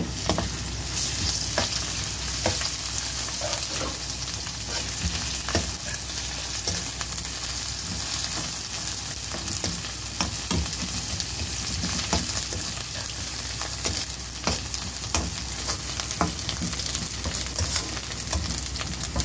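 Chopped onions and ginger-garlic paste sizzling in hot oil in a wok, with a steady hiss. A perforated metal spoon stirring them gives scattered scrapes and clicks against the pan.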